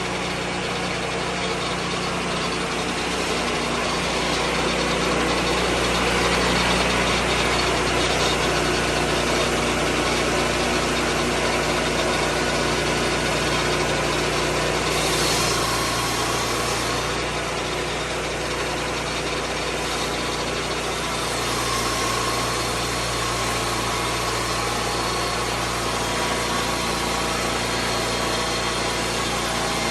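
Lucas Mill 10-30 swing-blade sawmill's engine running steadily, with the dense whir of the mill at work and small swells in loudness.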